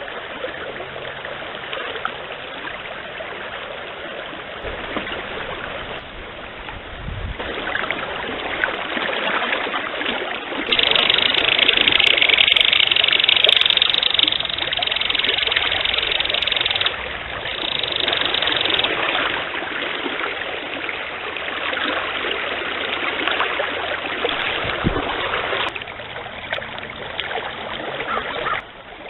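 Forest stream running, a steady rushing of water that jumps abruptly in level several times and is loudest roughly from a third to just past halfway through.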